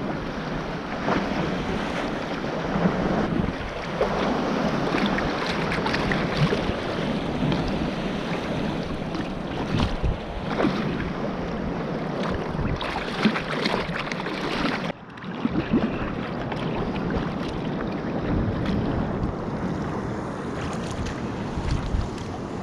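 Wind buffeting the microphone over water washing and splashing against a kayak at sea, with many short splashes. The sound drops sharply for a moment about two-thirds of the way through, then resumes.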